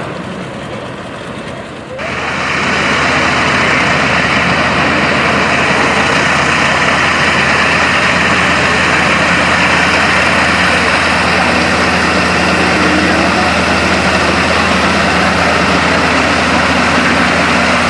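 Aircraft engine running steadily on the ground, a loud, even whooshing hiss with a low hum under it, which starts abruptly about two seconds in.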